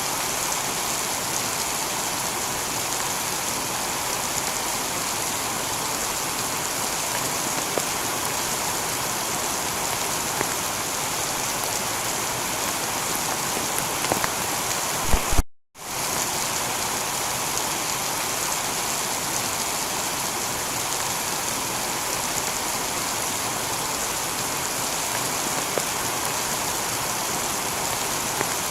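Steady heavy rain falling on a tiled roof. About halfway through there is a brief sharp crackle, then the sound cuts out for a moment and resumes.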